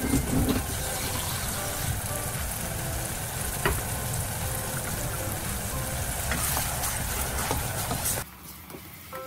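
Chopped red onions frying in a small saucepan: a steady sizzle with crackles and an occasional sharp pop. The sizzle cuts off suddenly about a second before the end, and soft background music with a few spaced notes follows.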